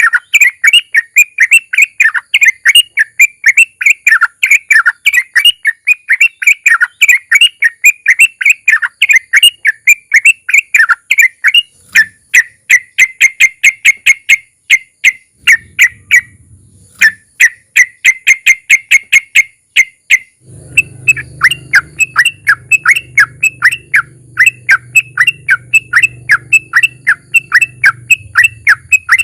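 Yellow-vented bulbul (trucukan) singing a long rolling song: quick repeated notes, about five a second, broken by short pauses. A faint low hum runs under it in the second half.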